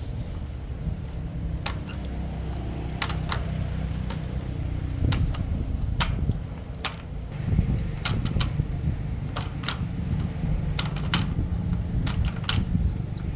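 A machine runs with a steady low hum, with sharp light clicks or taps at irregular intervals over it, about one or two a second.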